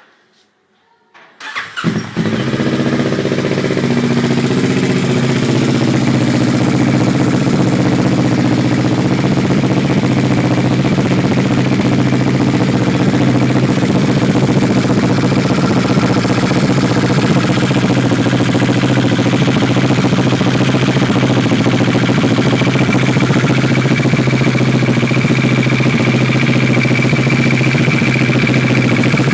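2012 Kawasaki ER-6n's parallel-twin engine starting up about a second and a half in, then idling steadily through a custom-made link pipe and slip-on exhaust.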